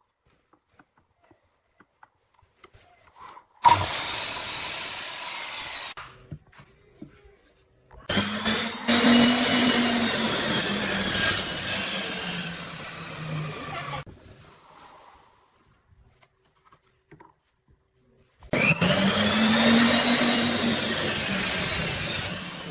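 Electric power tool cutting wood in three runs, the longest in the middle, each with a motor pitch that rises and then sinks as it works through the wood.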